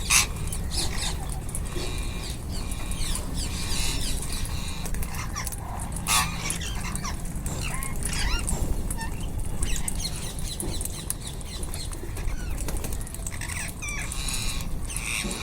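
A group of ringneck parrots calling with many short chirps and squawks, two of them louder and harsher, near the start and about six seconds in. A low steady rumble runs underneath.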